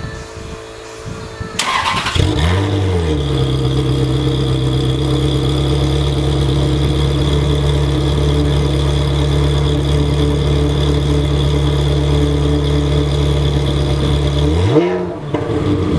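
Ferrari 360 Challenge Stradale's V8 breathing through a one-off custom exhaust, starting up. The starter cranks briefly about one and a half seconds in, and the engine catches with a rev flare that settles to a steady idle. Near the end there is one short throttle blip.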